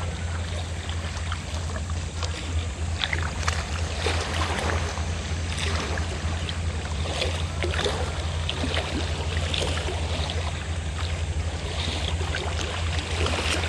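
Fishing boat engine droning steadily at a low pitch, under the lapping and small splashes of sea waves.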